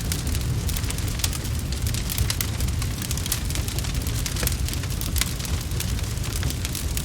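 Crackling wood fire: dense, irregular pops and snaps over a steady low rumble.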